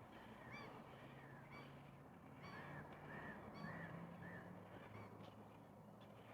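Distant birds calling in a quick series of short, arching calls, about two a second, faint over a quiet lake ambience.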